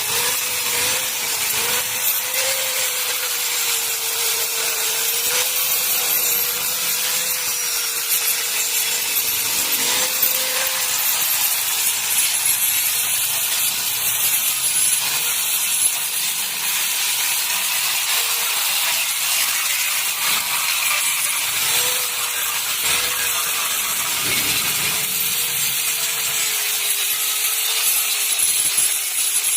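Electric power tool abrading metal: a steady, harsh hiss over a motor note that wavers slightly, typical of grinding or sanding down welded-over rust holes.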